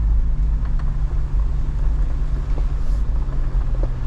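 Jeep Wrangler driving on a forest road: a steady low engine and road rumble with a constant hum.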